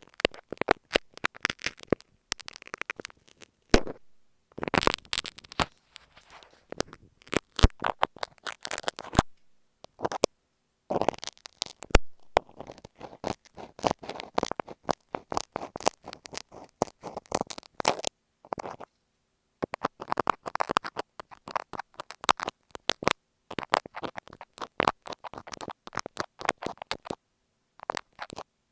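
Dressmaker's marking pins working over masking tape on an earphone microphone, close up: rapid crackly scratches and clicks in bursts, with brief pauses between them.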